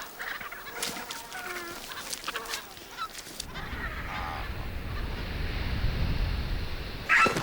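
Scavenging birds squabbling at a carcass: harsh, honking calls with sharp clicks for the first few seconds. A low rumbling noise then takes over, and one loud call sounds near the end.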